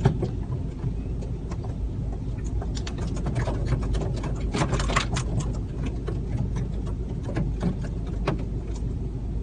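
Steady low car rumble, heard inside the car, with many short sharp clicks and taps scattered over it.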